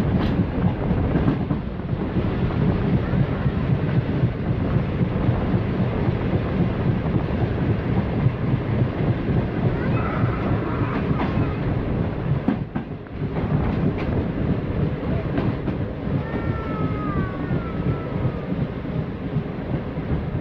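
Jinnah Express passenger coach running along the track, a steady loud rumble of wheels on rail with rushing wind, heard from the open side of the moving train. Scattered clacks come from the wheels over the track, and a few brief high squealing tones sound near the middle and toward the end.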